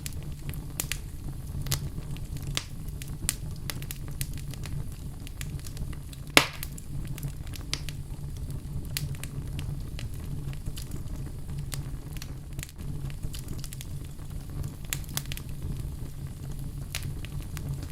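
Wood fire burning in a fireplace: a steady low rumble of the flames with scattered sharp crackles and pops, one loud pop about six and a half seconds in.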